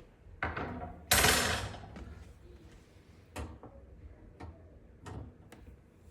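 Parts of a dish drying rack clattering and clicking as it is assembled by hand: a loud rattling scrape about a second in, then several sharp clicks.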